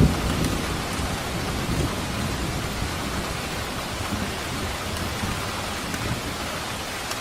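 Steady rain hissing on surfaces during a thunderstorm. A low rumble of thunder dies away in the first moment.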